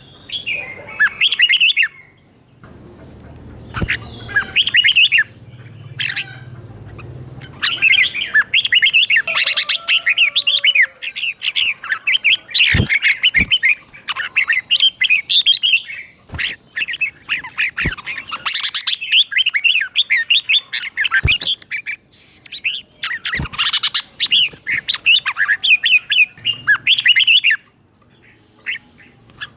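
Red-whiskered bulbul singing in quick, warbling phrases several seconds long, broken by short pauses. A few sharp clicks fall between the phrases.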